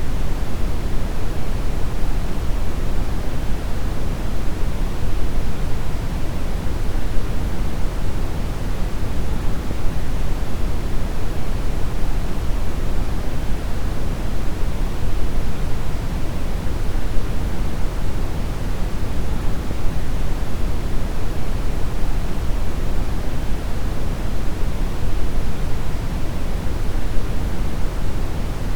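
Deep brown noise: a steady, even rushing hiss weighted heavily toward the low end, unchanging throughout.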